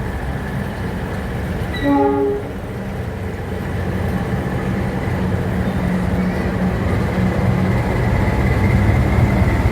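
GE CC206 diesel-electric locomotive running with a steady low rumble that grows gradually louder as it comes by. There is a brief horn-like tone about two seconds in.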